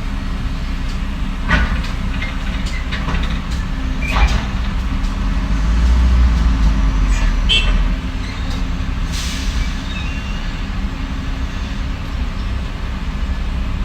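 Heavy diesel earthmoving machinery running steadily, with a few sharp metallic clanks. The engine works harder for a couple of seconds around the middle, and there is a short hiss about nine seconds in.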